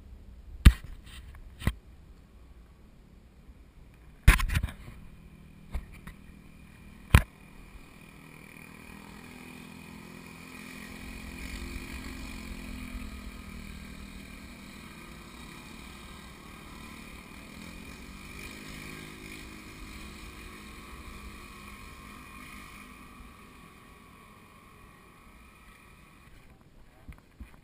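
Several sharp knocks in the first seven seconds, then a motor vehicle's engine passing, swelling a few seconds later and slowly fading.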